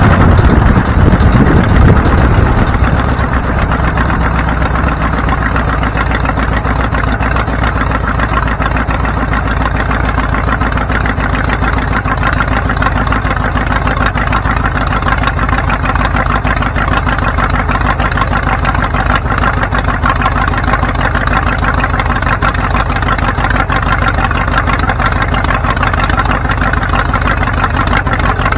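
A vehicle engine running at a steady speed, loud for the first couple of seconds, then settling to an even hum.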